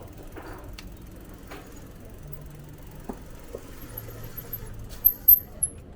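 Town street ambience heard from a bicycle, with a low steady hum and scattered small clicks, broken near the end by several short, very high-pitched squeaks, the loudest coming in quick succession about five seconds in.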